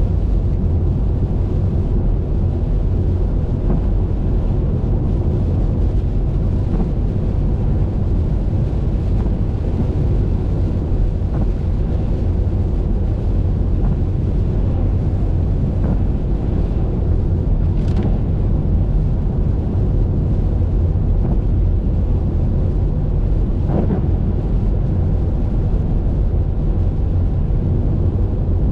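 Car driving on a highway: a steady low rumble of road and wind noise, with a couple of faint ticks.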